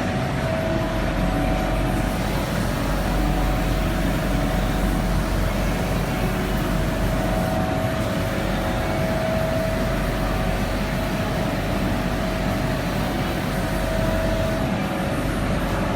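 Powder-coating equipment running steadily: an even hiss of air with a constant whine and a low hum, as in a spray booth with its extraction fan working while powder is sprayed.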